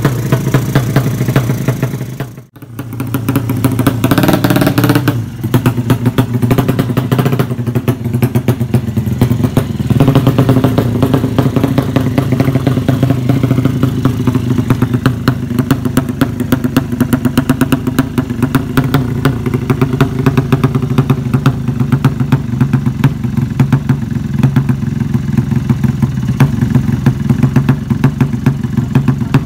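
Drag-racing motorcycle engine running with rapid, even firing pulses at a fast idle. It drops out sharply for a moment about two and a half seconds in, then revs and settles back to steady running.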